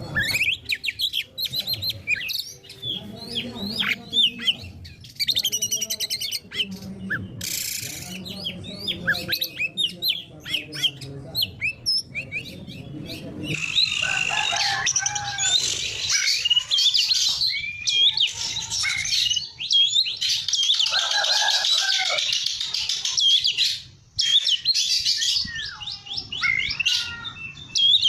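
Oriental magpie-robin singing hard: a long, varied song of loud whistles, chirps and quick trills, with a denser, busier stretch from about halfway through.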